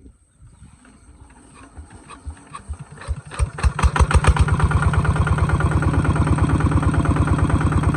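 Kubota ZT140 single-cylinder diesel engine starting. About three seconds in, firing strokes build up quickly, and the engine catches and settles into steady running at an even beat.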